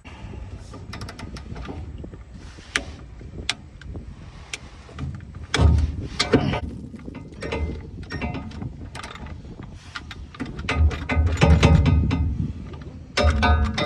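Hand ratchet clicking in irregular runs with metal tools knocking, working on stuck fuel-tank strap bolts under an old pickup. Heavier clanks come in a few clusters.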